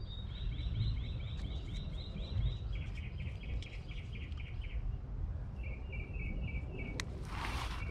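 Outdoor ambience: a bird chirps in the background in rapid high trills, three phrases with short gaps, over a steady low wind rumble. About seven seconds in there is a click and a brief rasp.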